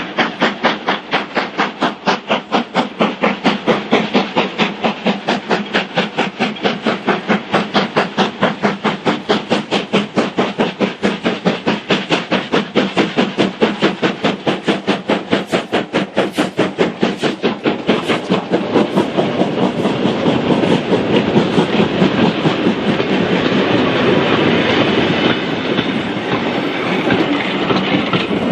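Steam locomotive 45212, an LMS Black Five, working hard with quick, even exhaust chuffs. From about two-thirds of the way through, the beats blur into a steady rushing roar.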